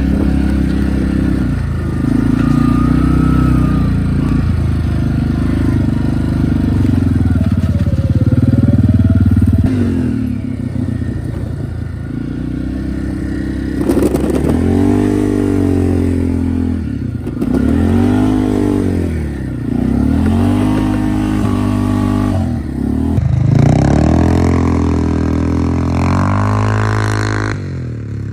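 Four-wheeler (ATV) engine running under way, its pitch rising and falling again and again through the second half as the throttle is opened and eased off.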